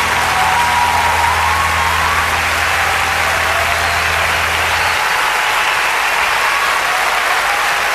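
Audience applauding, dense and steady, over the song's final held low note, which stops about five seconds in.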